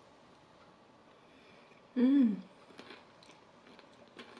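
A person chewing a mouthful of cereal-topped custard pie, with soft wet mouth clicks. About two seconds in comes a short closed-mouth hum that rises and then falls in pitch.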